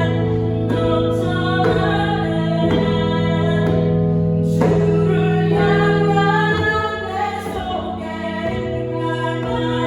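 Live worship song: a singer over held keyboard chords, with djembe strokes about once a second.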